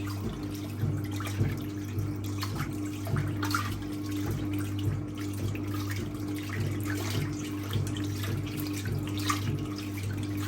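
1958 Hotpoint Empress washing machine running, a steady electric motor hum under the agitator swishing a load of towels back and forth through the rinse water in a regular rhythm.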